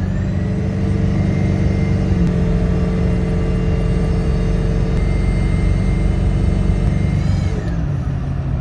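Ford Power Stroke diesel with a failing turbo: the engine is held at raised revs, with the turbo's high-pitched whine over the engine note, and both fall back toward idle near the end. The turbo's new, abnormal sound is a warning sign of turbo failure.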